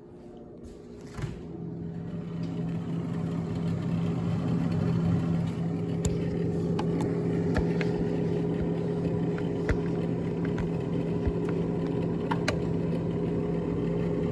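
An electric motor starts about a second in and runs with a steady hum that builds over a few seconds, with a few light clicks.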